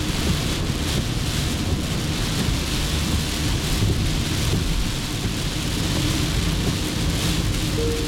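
Heavy rain drumming on a car's roof and windshield while driving, over tyre hiss on the wet road and a steady low rumble in the cabin.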